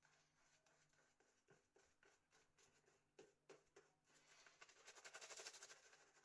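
Very faint swishing of a badger hair shaving brush working soap lather over the face, with a few soft clicks; the brushing grows a little louder about four to five seconds in.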